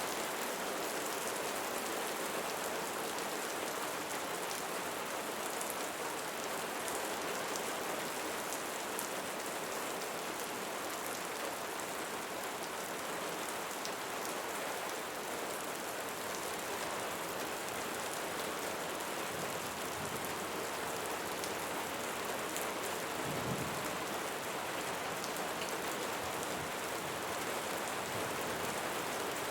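Steady rain falling, an even hiss of drops with faint fine patter, and a brief low rumble about two thirds of the way through.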